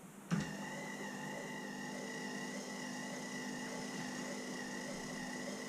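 An electric motor on the milling machine switched on with a click and running steadily with an even whine, driving the table along while the vice jaw is indicated.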